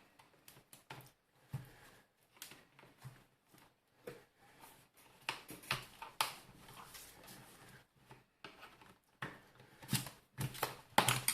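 Irregular clicks, creaks and scrapes of a screwdriver prying at the plastic housing of a Tefal steam iron, working its hidden snap clips loose, with the sharpest cracks near the end.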